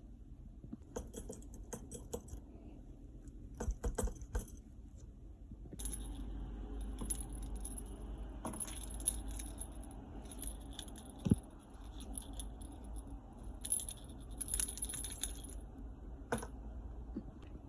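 Small metal objects jingling and clinking in several short bunches of rapid clicks, with a low rumble underneath for most of the time.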